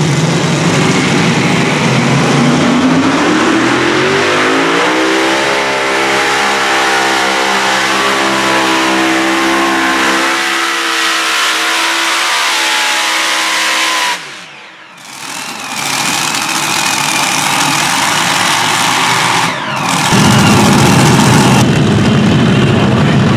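Modified pulling tractor's engines revving up and running hard at high speed, loud and rising in pitch over the first few seconds, then held high. About two-thirds through, the sound drops away sharply, and a loud steady roar of noise returns near the end.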